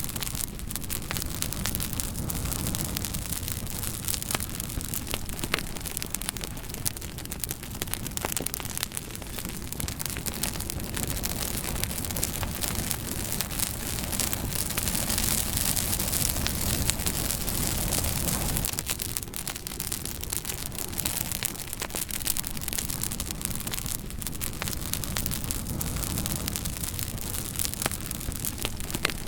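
Wood fire burning in a fire pit: a steady hiss with many small irregular crackles and pops over a low rumble. The sound swells a little midway.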